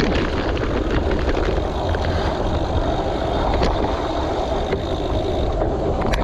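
Steady rumble and wind buffeting from riding along a gravel road, with scattered small clicks and crunches from the tyres on loose stones.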